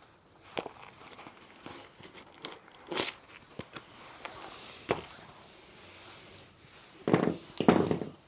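Objects being handled and moved about: scattered knocks and light rustling, then two louder scuffing thuds near the end.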